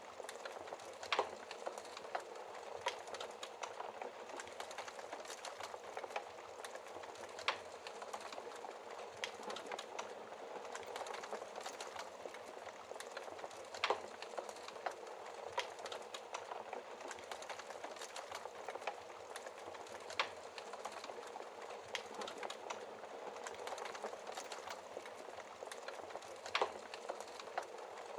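Wood fire in a fireplace crackling steadily: a soft hiss full of small, irregular snaps, with five louder pops spaced about six seconds apart.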